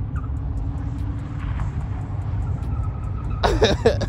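Honda Accord's engine running steadily at a distance as it does handbrake slides, over a constant low rumble. A short loud shout cuts in near the end.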